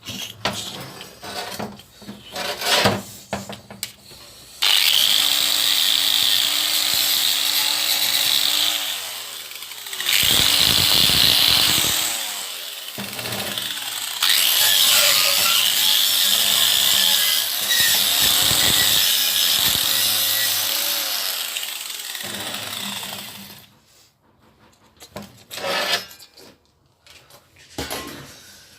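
Loud, continuous metalworking tool noise on a sheet-metal floor repair, starting about five seconds in and stopping a few seconds before the end, with short dips in the middle. Scattered knocks and clicks come before and after it.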